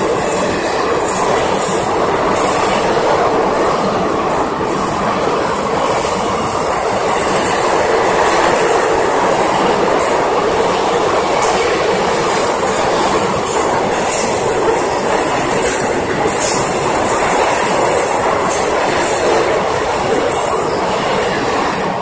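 Telangana Express passenger coaches running past at high speed: a steady, loud rush of wheel and rail noise with clickety-clack over the rail joints.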